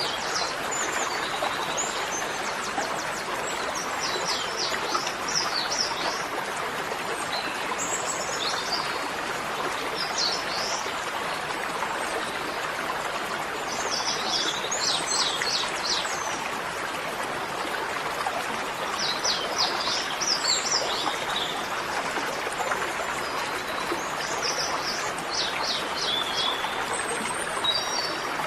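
Small birds chirping in quick clusters every few seconds over a steady rush of running water.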